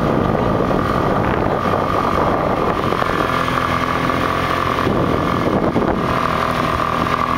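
Motorcycle engine running under way, with wind noise over the microphone. About three seconds in, the engine settles to a steady even note.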